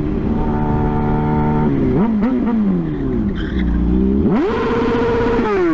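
Motorcycle engine running under the rider, its pitch held steady, then dipping and rising with the throttle, revving sharply up about four seconds in, holding high, and dropping off near the end.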